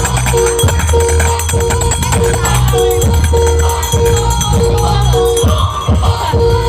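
Loud dance music with heavy, pulsing bass, a short repeating melody and rapid percussion, played through a large carnival sound system.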